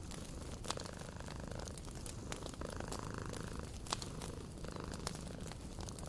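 A cat purring in slow swells over the crackle and pops of a wood fire.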